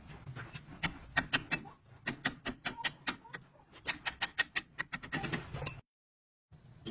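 Hammer blows on steel parts in quick runs of several strikes a second, each sharp and ringing, with short pauses between the runs.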